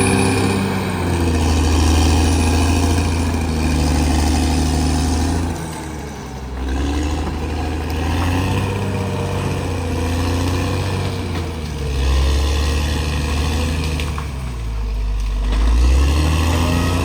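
CAT D6R XL bulldozer's diesel engine working, with its pitch and loudness dipping and then climbing back twice: about six seconds in and again near the end.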